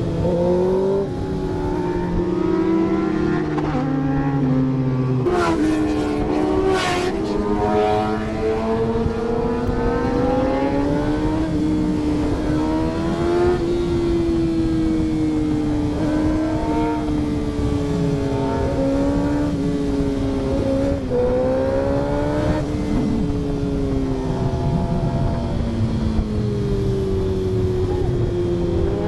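Motorcycle engine running under way, its pitch climbing and then dropping at each gear change, rising and falling with the throttle. There is a short burst of noise about six seconds in.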